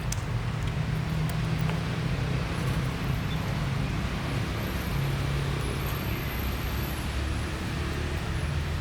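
Steady motor vehicle engine and road noise, its low hum shifting down in pitch a couple of times.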